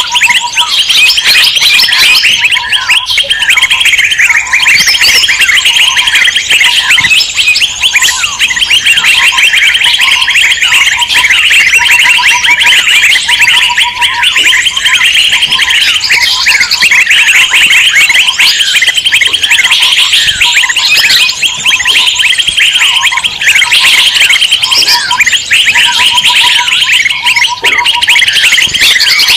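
A loud, dense chorus of many small songbirds chattering rapidly and without pause, with a lower run of short piping notes coming and going every second or two. It is a bird-lure (pikat) recording of noisy, excited small birds such as bulbuls, used to draw wild birds in.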